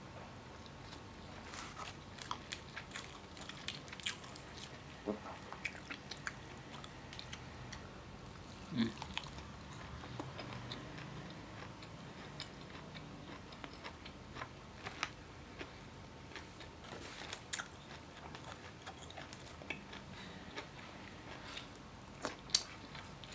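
A person chewing a meal of rice and chicken, with many small scattered clicks and crunches of eating.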